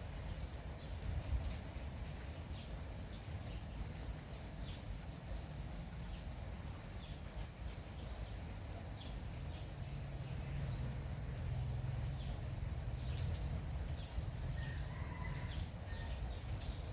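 Small birds chirping over and over, short high calls several to the second, over a steady low rumble and the light hiss of drizzle.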